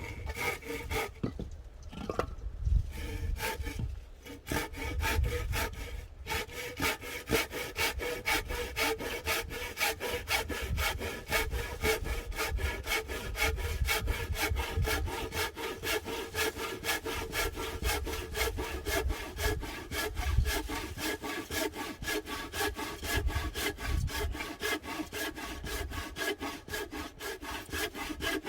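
A hand saw cutting through a log for firewood. There are a few uneven strokes at first, then fast, steady back-and-forth strokes from about six seconds in, with the blade ringing.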